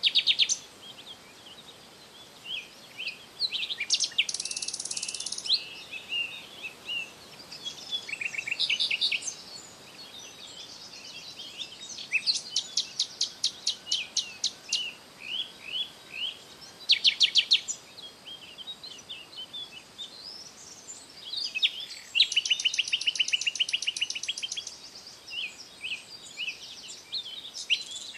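Songbirds singing and chirping: repeated short high chirps with several rapid trills of evenly spaced notes, the longest runs about twelve seconds in and again about twenty-two seconds in.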